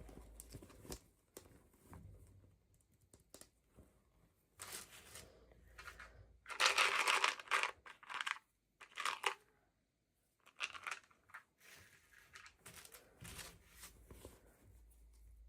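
Packaging being torn open and crinkled by hand, in several short rustling bursts with small clicks between them. The longest and loudest tear comes about seven seconds in.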